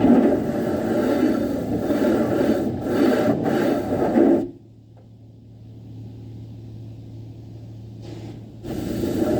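Self-service car wash equipment running: a loud, steady rushing wash noise cuts off abruptly about halfway through, leaving a steady low hum, then starts again abruptly shortly before the end.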